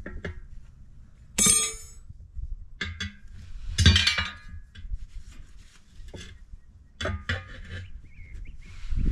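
Tyre-fitting tools working a heavy truck tyre's bead onto its steel rim: several separate metal knocks and clinks, the sharpest about one and a half seconds in ringing briefly.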